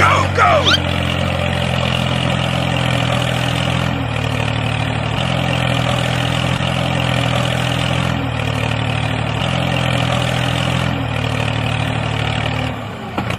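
Tractor engine running steadily, its pitch shifting slightly every second or two, then dropping away near the end. A brief high gliding cry sounds right at the start.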